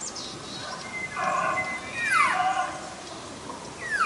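Bull elk bugling: a high, held whistle that breaks into a steep downward slide, then a second falling call near the end.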